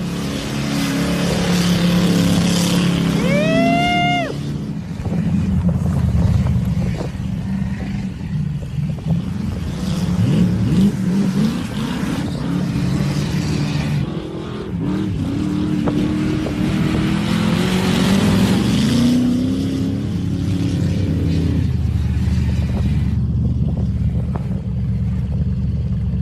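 Squarebody Chevy truck engine running hard and revving, its pitch rising and falling repeatedly. About three seconds in there is a brief high tone that rises and then falls.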